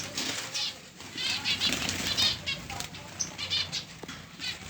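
Pet finches chirping in quick runs of short, high notes, with wings fluttering.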